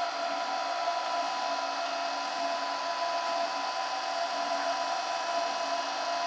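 Arduino CNC router's spindle motor running steadily, spinning free with an even whine of several steady tones over a hiss.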